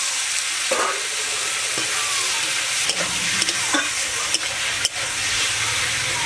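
Boiled elephant-foot yam stalks sizzling in hot oil in an aluminium kadai, stirred with a spatula that scrapes and knocks against the pan several times.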